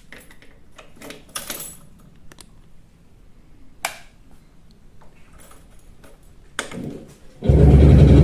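Light clicks and rattles of handling, then about seven and a half seconds in the Čezeta 175/501's single-cylinder two-stroke engine starts and runs loudly and steadily.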